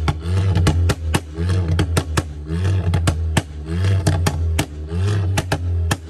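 A tuned car engine being revved repeatedly, its pitch rising and falling, with many sharp exhaust pops and cracks.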